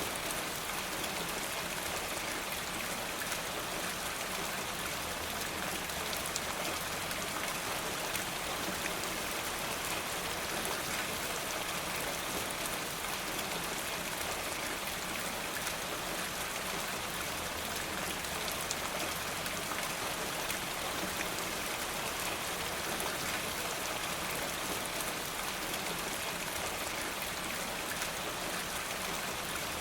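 Steady rain falling, an even hiss with many small scattered ticks of drops throughout.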